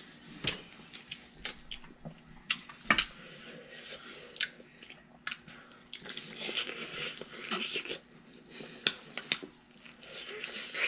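Mouth sounds of eating at close range: chewing and lip-smacking with many short, sharp clicks.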